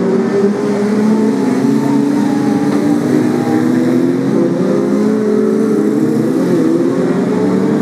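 A pack of BriSCA F2 stock cars racing, several engines running at once in a steady, loud, overlapping drone with pitches that waver slightly.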